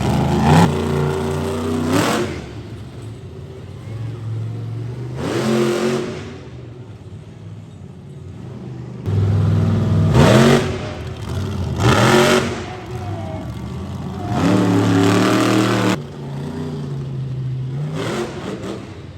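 Monster truck engine revving hard in repeated bursts, its pitch climbing on each, about five times, with lower running in between.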